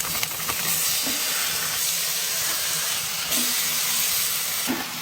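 Bacon sizzling in a hot pan: a steady, dense frying hiss.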